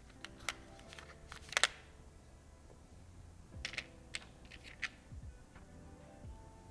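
Two quick clusters of light clicks and taps, the loudest a sharp double click about a second and a half in, from small game pieces and packaging being handled. Soft background music plays throughout.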